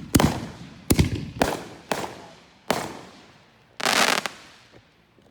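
Consumer fireworks cake (a 50-shot) firing: five sharp bangs roughly half a second apart, each with a short ringing tail, then a longer half-second burst about four seconds in.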